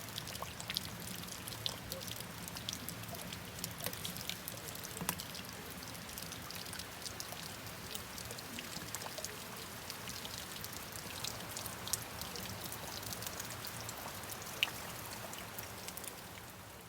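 Steady rain falling, with many separate drops ticking sharply against the hiss; it fades out near the end.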